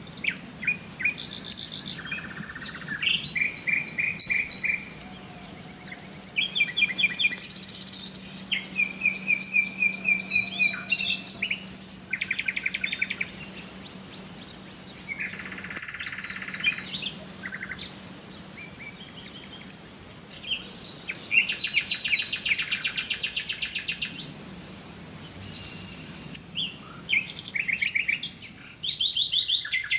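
Birdsong: short, fast trilled and chirping phrases, one after another with brief pauses, several different song types overlapping.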